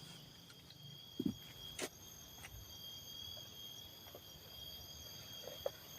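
Steady high-pitched drone of forest insects, several even tones held together, with a few light knocks about a second in, just before two seconds, and near the end.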